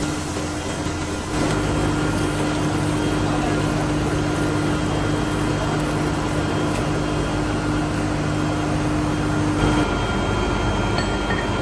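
Workshop machinery running steadily with a constant hum, stepping up in level about a second in and changing tone near the end.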